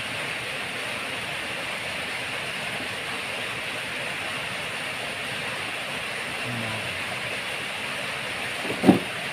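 Steady rain hiss. One short, loud sound near the end.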